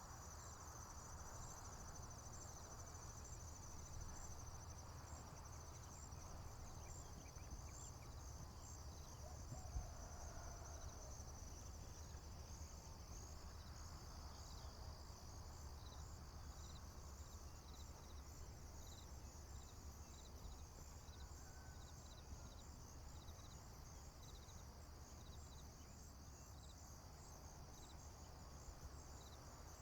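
Faint, steady chorus of crickets and other insects trilling high, with a lower chirp repeating about twice a second joining about halfway through. A low rumble runs underneath.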